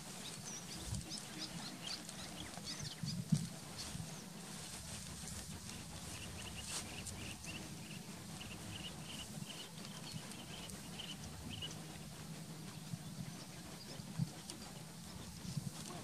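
Wild birds calling: scattered faint high chirps, and in the middle a run of short, evenly repeated high notes, a few a second, for several seconds, over a low steady rumble.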